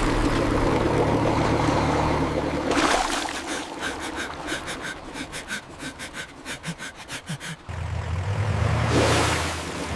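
A vehicle engine's low rumble, giving way for a few seconds midway to a fast, even, rhythmic clatter, then rumbling again.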